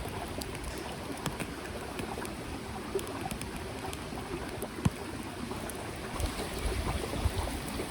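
Small mountain stream running steadily, with a few light clicks and knocks over it; a low rumbling comes in about six seconds in.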